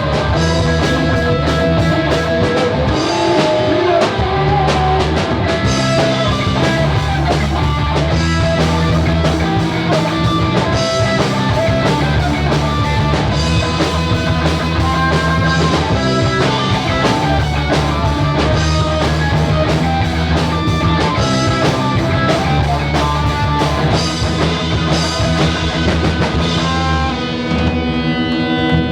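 Rock music played by a band with guitar and drum kit at a steady beat; near the end the drums drop away, leaving sustained guitar notes.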